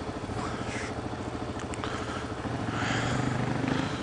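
Suzuki DR-Z400 dual-sport motorcycle's single-cylinder engine running at low revs with a rapid, even firing pulse.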